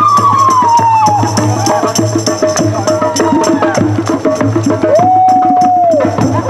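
Live folk music for a round dance: a melody of long, arching notes over a fast, even clatter of hand percussion such as tambourine and wooden knockers.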